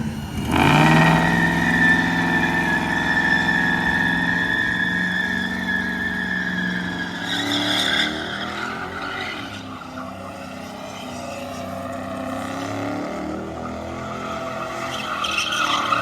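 A car engine held at high, steady revs during a burnout, with the tyres spinning. About seven seconds in, the steady engine note breaks up and the sound turns rougher.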